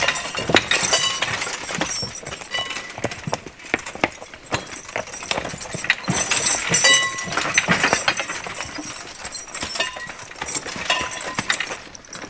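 Draft horse team hauling a wagon over rocky ground: hooves clopping, the wagon knocking and rattling over rocks, and harness chains and metal fittings clinking and ringing in a steady, irregular jumble.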